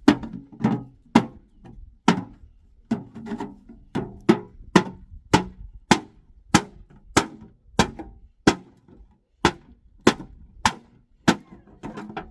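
Steady hammering, with sharp blows at about two a second.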